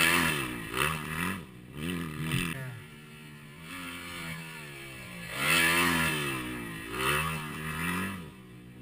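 Dirt bike engines revving in repeated throttle blips, the pitch climbing and dropping again and again. The loudest revs come right at the start and about five and a half seconds in.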